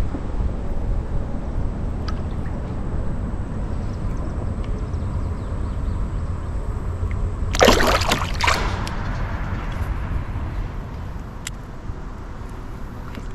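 River water sloshing and trickling, over a steady low rumble, with one short splash just over halfway through.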